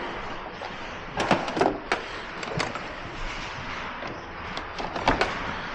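Scattered knocks and clicks of tools and parts being handled during hands-on car repair work, about six in all, over a steady hiss of shop noise.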